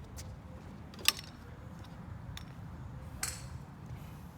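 Golf club striking a ball: one sharp click about a second in, and a fainter strike near three seconds in.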